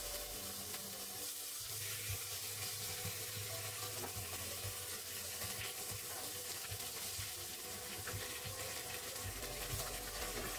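Slices of luncheon meat sizzling in hot oil in a stainless steel frying pan, a steady high hiss with a few light clicks of a plastic spatula.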